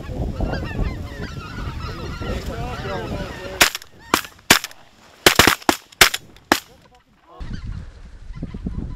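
Geese honking in a busy chatter, then a rapid volley of about nine shotgun blasts from several guns over about three seconds. The honking picks up again near the end.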